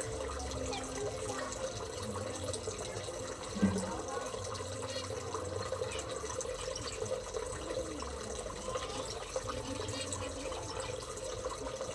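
Steady running, splashing water, with a low steady hum under it and a single knock about three and a half seconds in.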